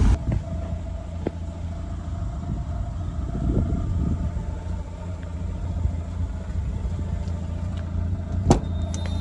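1993 Mazda Miata's 1.6-litre four-cylinder engine idling steadily, with one sharp click about eight and a half seconds in.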